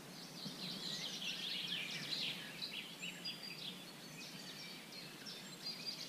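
Small birds chirping: a scatter of short, high calls, thickest in the first half, over a faint steady low hum.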